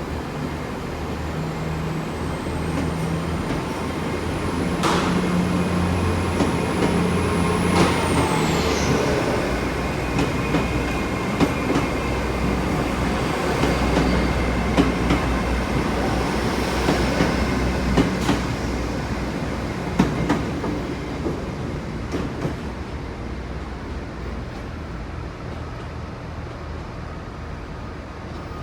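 Class 802 bi-mode train pulling out under diesel power: its underfloor engines run up, a high whine climbs and then drops away about eight seconds in, and the wheels click over rail joints as it gathers speed. The sound eases off toward the end as it draws away.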